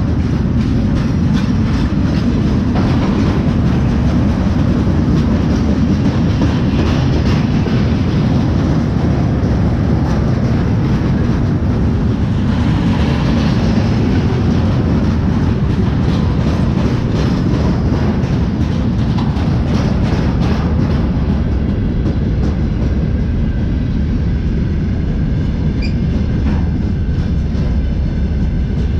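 Freight train wagons rolling past close by: a steady heavy rumble, with the wheels clicking over the rail joints. The higher rattle thins out about two-thirds of the way through, as tank cars give way to open gondola wagons.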